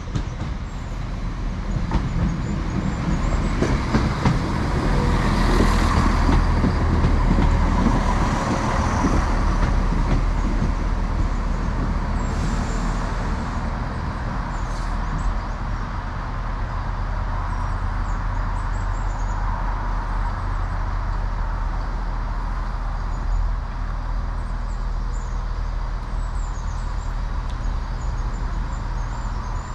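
Two-carriage diesel passenger train running through the station with a steady low engine drone. Rapid clicks and rattles from the wheels are loudest around five to nine seconds in, then the engine drone goes on steadily.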